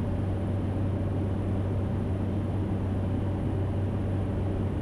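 Cessna 208 Caravan's PT6A turboprop engine and propeller running at takeoff power in the climb just after liftoff: a steady, even drone.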